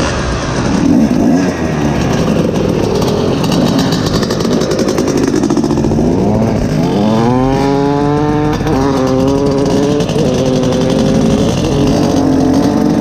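Two-stroke dirt bike engine under hard acceleration: rough and noisy at first, then its pitch climbs steeply from about halfway, dips briefly as it shifts up a gear, and holds high to the end.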